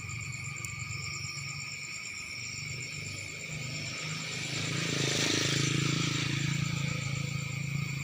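Crickets and other insects chirping steadily over a low hum, with a swell of rushing noise about four to seven seconds in.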